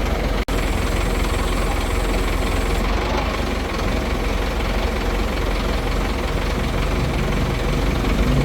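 A large engine running steadily, with a brief cut-out about half a second in.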